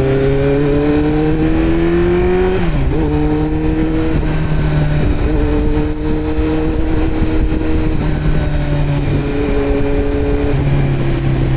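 Kawasaki Z900's 948 cc inline-four through a Yoshimura muffler and Delkevic headers with no dB killer, riding at speed. The revs climb for the first couple of seconds, drop sharply at an upshift, then hold fairly steady with several dips and steps as the throttle is eased and reopened.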